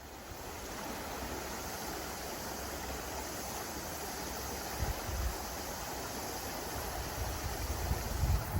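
Steady rushing wind noise, with low buffets of wind hitting the microphone about five seconds in and again near the end.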